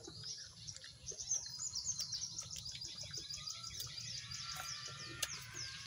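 A small bird calling in a rapid series of high, falling chirps.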